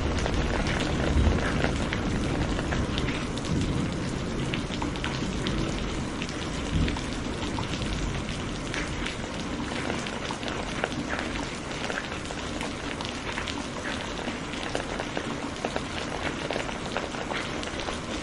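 Steady rain falling, with many separate drops ticking sharply over an even wash. Low rumbling swells come up about a second in and again near seven seconds.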